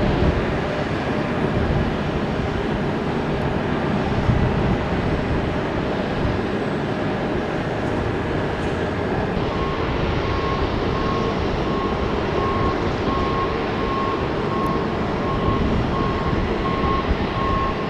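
Jet airliner engines running, a steady rush of noise. About halfway through, a thin high tone joins it and pulses at an even pace.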